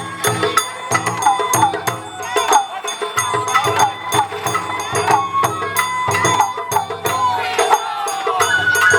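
Sawara-bayashi festival music from the float: a high bamboo flute melody with held and sliding notes over fast, steady drum strikes and the ringing clang of a small hand gong.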